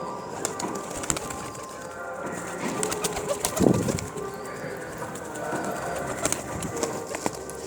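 Domestic pigeons cooing, with scattered sharp clicks throughout and a louder burst about halfway through.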